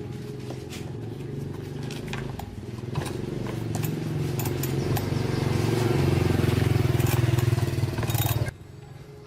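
Chainsaw engine running, growing steadily louder, then stopping abruptly near the end.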